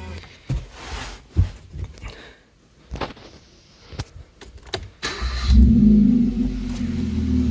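Hyundai i20 being started: a few clicks and knocks from the key and ignition, then about five seconds in the starter cranks briefly and the engine catches with a loud flare. It then settles to a steady idle through an exhaust with the rear muffler removed.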